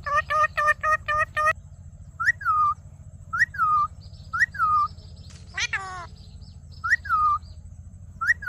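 Indian ringneck parrot calling. It opens with a quick run of short pitched calls, then gives single short calls every second or so that rise and then fall, with one longer falling call about midway.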